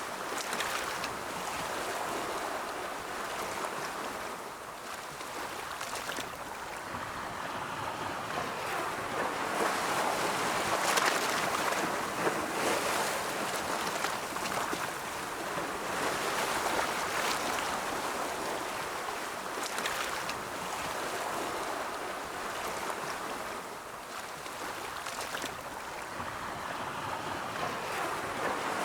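Ocean waves breaking and washing on a shore, a continuous rushing surf that swells and ebbs slowly, loudest in the middle.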